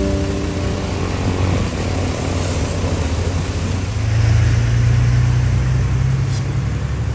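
Steady rain with the low drone of a passing engine underneath, growing louder from about four seconds in.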